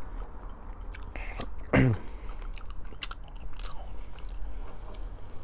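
A person chewing food close to the microphone, with wet mouth clicks and smacks, over a steady low hum. A louder short sound that falls in pitch comes just under two seconds in.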